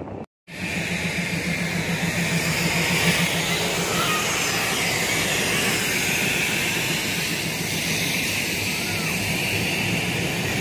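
Passenger express train running at speed: a loud, steady rumble and rush of the moving coaches on the track. It comes in after a split second of silence at the very start.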